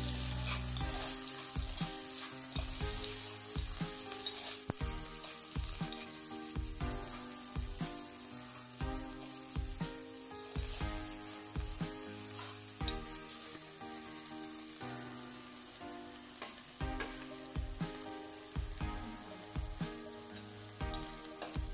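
Sliced onions, green chillies and curry leaves sizzling in hot coconut oil in a clay pot, with a ladle stirring and scraping against the pot in short strokes about once a second.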